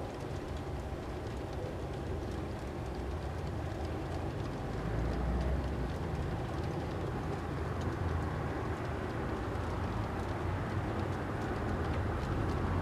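Freight train rolling past: a steady rumble with faint clicking of wheels on the track, growing slightly louder about five seconds in.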